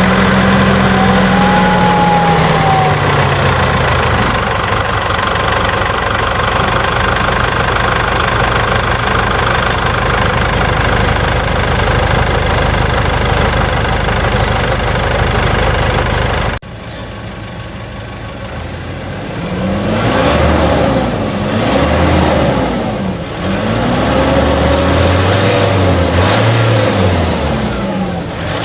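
Nissan Navara diesel engine held at high revs as a loud, steady drone. After a sudden cut about 16 seconds in, it is revved in repeated blips, its pitch rising and falling several times.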